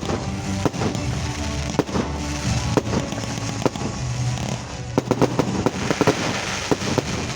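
Aerial fireworks bursting in a string of irregular sharp bangs, coming thicker about five seconds in, over music playing.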